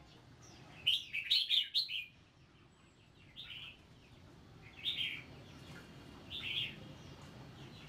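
Small bird chirping: a quick run of high chirps about a second in, then single chirps every second and a half or so.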